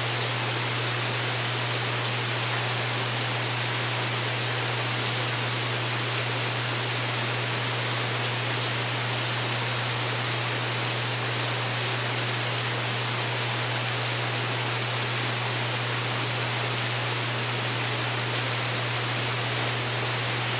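Steady rain pattering on a porch roof, an even hiss with no single drops standing out, over a constant low hum.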